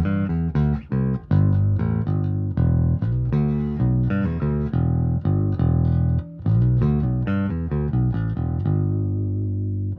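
Thunderbird electric bass played as a plucked bass line, a steady run of notes with a couple of brief breaks, ending on a held note that rings on.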